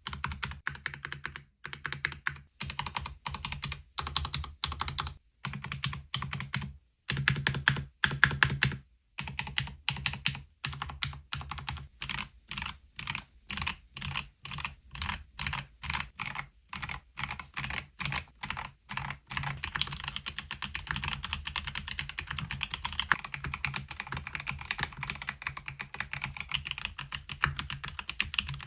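Typing on a MelGeek Mojo68 mechanical keyboard with Gateron brown switches. The key clacks come in short bursts with brief pauses between them, then run on as fast continuous typing for the last third.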